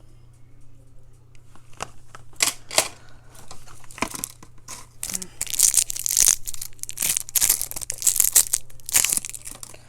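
Small cardboard makeup-brush boxes being handled and torn open, with irregular tearing and crinkling that starts about two seconds in and is busiest in the second half.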